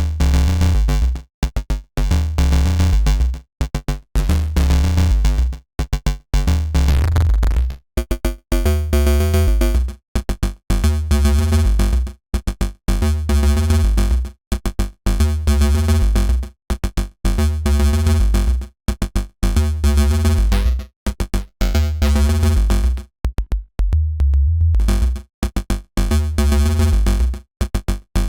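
Looping dirty FM synth bass riff built in Bitwig's Polygrid, heavy in the deep low end, with choppy stop-start notes that repeat about every two seconds. About eight seconds in, its tone changes and turns brighter and more buzzy.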